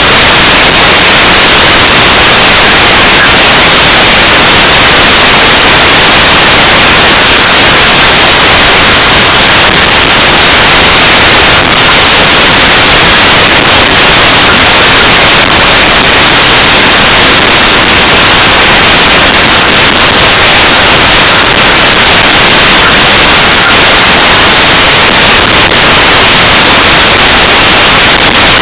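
A fireworks display recorded so loud that the audio is clipped into a steady hissing noise. No separate bursts stand out.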